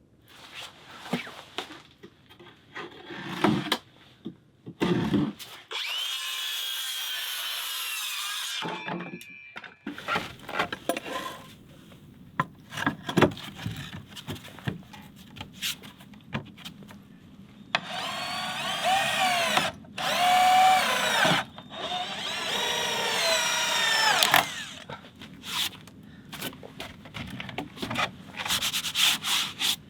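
Power drill running into wood in four bursts of one to three seconds, its pitch bending as it loads up, between knocks and handling clatter of wood and tools.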